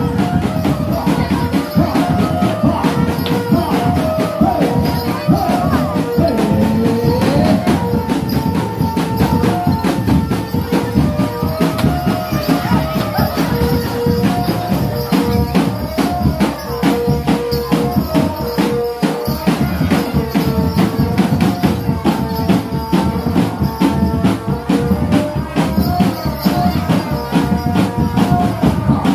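Barongan accompaniment music: a melody of held notes over fast, dense percussion.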